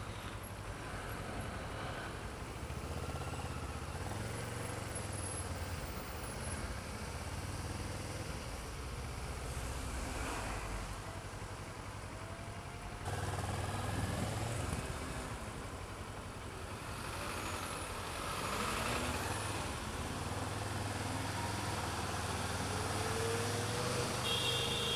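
City road traffic heard from a moving motorcycle: a steady low engine hum, with other vehicles passing and pulling away around it. The level steps up about halfway through.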